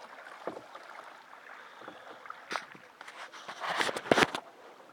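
Water splashing and sloshing against a small boat's hull, with a sharp knock about two and a half seconds in and a louder stretch of splashing and knocks a little after three and a half seconds.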